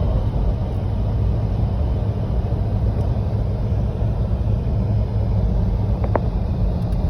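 Steady low rumble of a Jeep driving, engine and road noise heard from inside the cabin, with one brief click about six seconds in.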